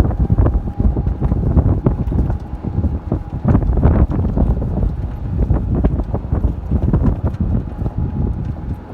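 Strong wind buffeting the microphone in loud, irregular gusts, with a faint steady whine underneath.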